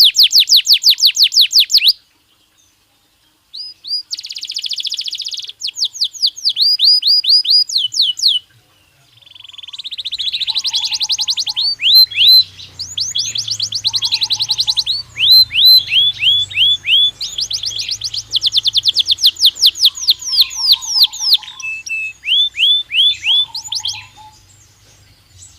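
Belgian canary singing: long fast trills of repeated falling notes, one run after another, with a short silent pause about two seconds in.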